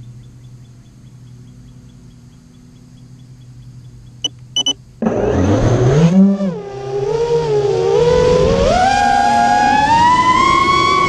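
FPV quadcopter's motors: a low steady hum with faint ticking, three short high beeps a little after four seconds, then about five seconds in the motors spin up into a loud whine that rises and falls in pitch with the throttle and climbs steadily near the end.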